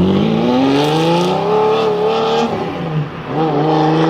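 Lamborghini Diablo V12 accelerating, its engine note climbing for about two and a half seconds. The pitch drops at a gear change about three seconds in, then rises again briefly and holds.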